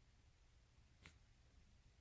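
Near silence: faint low room tone, with a single soft click about a second in.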